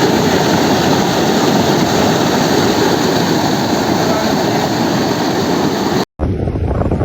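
Rushing floodwater of the swollen Jawai river, a steady loud rush of water. About six seconds in it cuts off abruptly and wind buffets the microphone.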